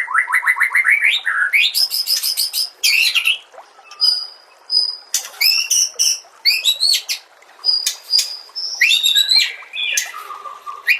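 White-rumped shama (murai batu) singing a loud, varied song full of mimicked fill phrases: a fast run of repeated notes climbing slightly in pitch, then high whistles, sharp clicks and repeated rising whistled notes with short pauses between phrases.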